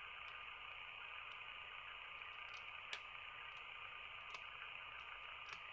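A few faint, sharp clicks from a precision mini screwdriver working a tiny screw out of a plastic model-coach lighting bar, over a steady background hiss. The clearest click comes about three seconds in.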